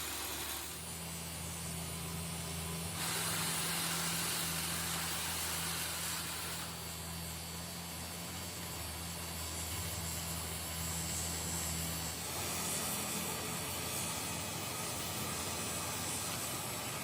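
A machine running steadily with a low hum, under a hiss that grows louder about three seconds in and eases again partway through.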